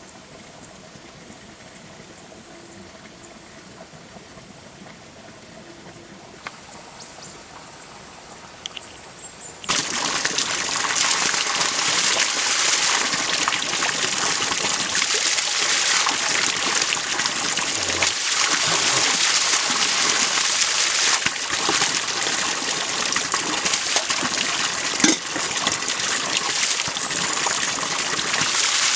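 Water splashing and trickling. Faint at first, then from about ten seconds in it suddenly becomes loud and steady.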